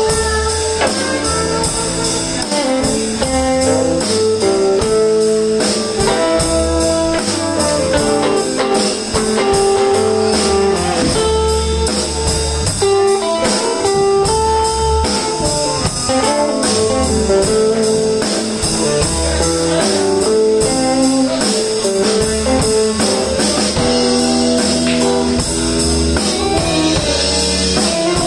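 Live blues band playing an instrumental break: electric guitar over bass and drum kit, with a melody line of held notes.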